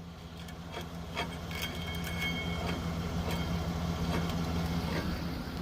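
Tow truck engine running at a steady hum while its winch works the cable, growing louder over the first seconds. A thin whine runs from about one and a half seconds in to near the end, with scattered clicks and clanks.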